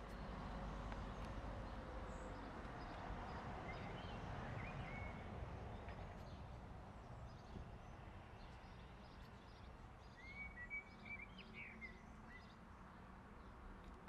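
A few short bird chirps over a faint, steady background rumble. A couple come about four seconds in and a quick cluster about ten seconds in.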